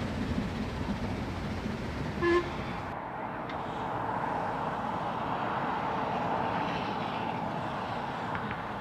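A narrow-gauge steam locomotive's whistle gives one short toot about two seconds in, over the rumble of the train, which fades after it.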